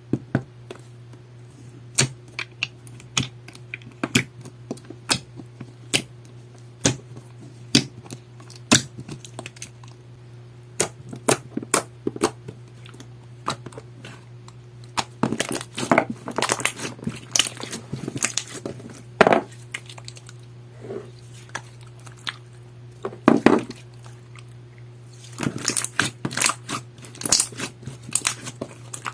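Clear slime being poked, pressed and stretched by hand, giving sharp wet clicks and pops, scattered at first and coming in quick clusters about halfway through and again near the end. A steady low hum runs underneath.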